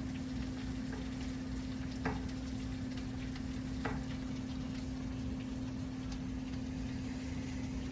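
Steady hiss of storm rain falling, with a low steady hum under it and two faint ticks, about two and four seconds in.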